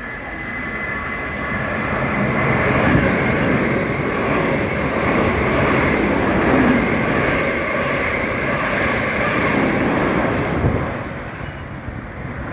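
A train passing through on the rails: the rush of wheels and carriages builds over the first couple of seconds, holds, and then fades near the end.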